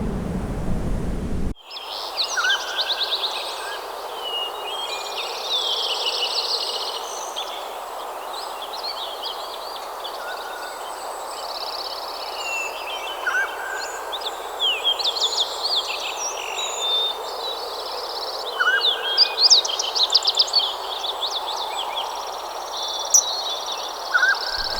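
Several songbirds singing and chirping, many quick trills and chirps overlapping, over a steady rushing background. The birdsong begins abruptly about a second and a half in, replacing a low, rumbly background.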